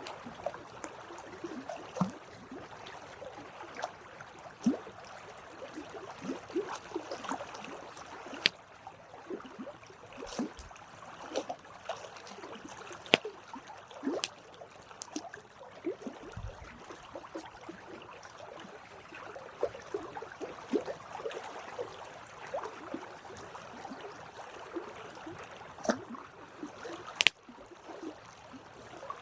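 Campfire wood burning, crackling steadily with irregular sharp pops, a few of them much louder than the rest, over a soft hiss.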